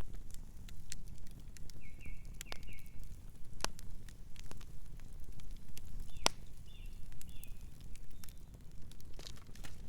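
Campfire crackling with many sharp pops over a steady low rumble; two pops, about a third and two-thirds of the way through, are the loudest. A bird chirps softly in two short runs, around two seconds and seven seconds in.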